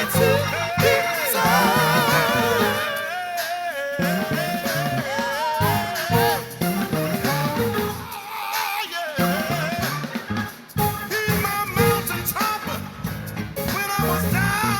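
Live gospel worship music: a band with drums plays while singers carry a wavering sung melody.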